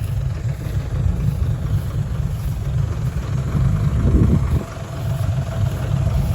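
Heavy dump truck's diesel engine running with a deep, steady rumble, with a short rise and fall in pitch about four seconds in.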